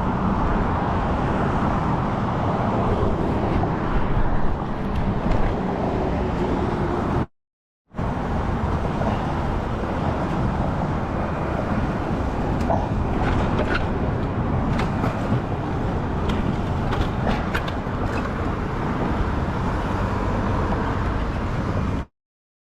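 Motorcycle ride sound of engine, road and traffic noise, a steady dense rumble. It drops out for about half a second about seven seconds in, and a few faint ticks come through later on.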